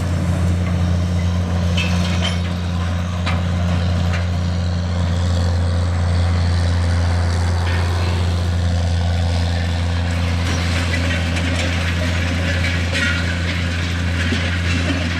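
John Deere 9420's 12.5-litre diesel engine running steadily under load as the tractor pulls a vertical tillage disk: a deep, even drone with a few faint clicks and rattles.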